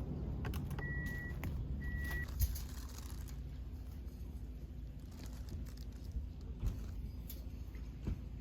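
Two short, high electronic beeps about a second apart over a low steady rumble, with scattered clicks and a knock.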